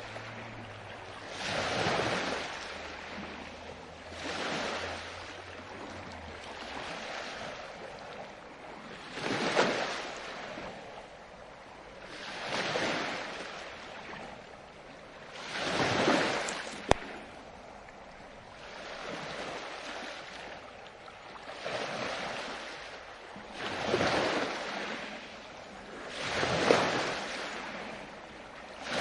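Ocean waves breaking on a beach, each wash of surf swelling and fading about every two to three seconds. A single sharp click about two-thirds of the way through.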